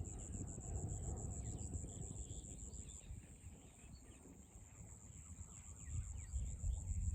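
An insect, cricket-like, chirps high in a fast, even pulse, with short, thin bird chirps scattered over it and a low rumble that eases off mid-way and builds again near the end.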